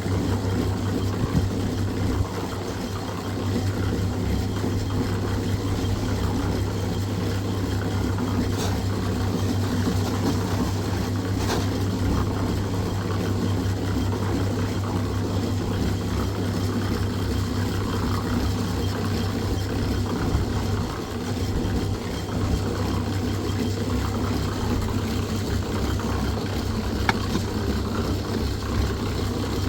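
A motor running steadily with a constant low hum, with a few faint clicks or knocks over it.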